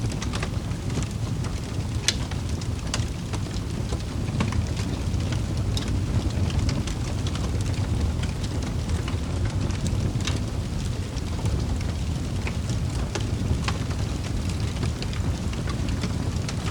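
Wood fire crackling in a fireplace: a steady low rumble of burning with frequent sharp irregular pops and snaps.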